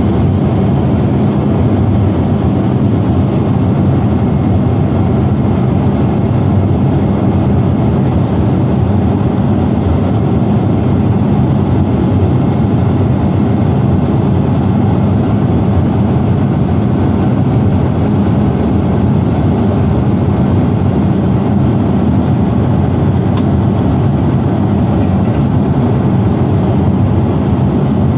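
Steady loud cabin noise inside a Boeing 777-300ER airliner: the even rush of its jet engines and airflow, holding constant, heaviest in the low end.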